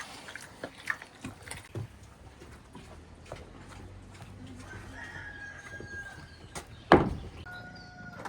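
A rooster crowing in long held calls, about five seconds in and again near the end. Scattered light knocks come early on, and one sharp, loud knock falls about seven seconds in.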